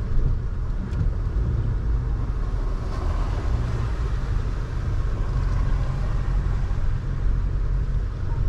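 Car driving at low speed, heard from inside the cabin: a steady low rumble of engine and tyres on the road.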